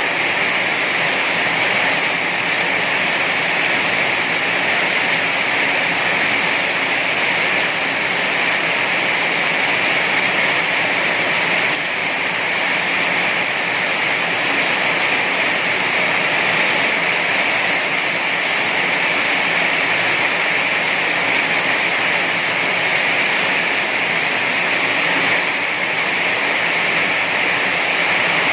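Heavy rain falling in a steady, dense hiss with no breaks or thunder.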